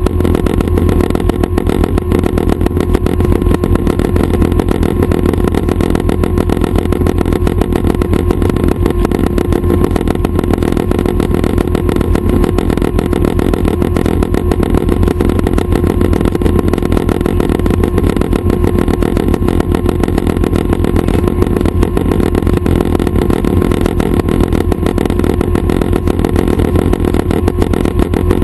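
Schweizer 269 light training helicopter's piston engine and rotors running steadily, a loud, unbroken low drone with a constant tone.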